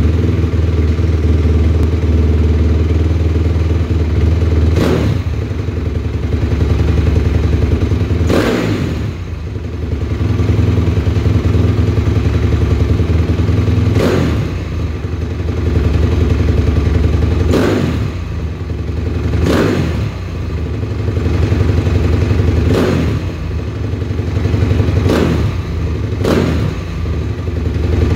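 2007 Honda CRF250R's single-cylinder four-stroke engine idling, with about eight quick, sharp throttle blips spaced a few seconds apart. The throttle is snapped open to test for an off-idle bog, which the owner says is almost fixed after re-timing the accelerator pump squirt.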